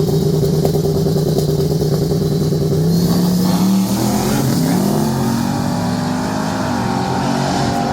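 Car engine running loudly with a steady pitch, which rises and then falls again about three to five seconds in.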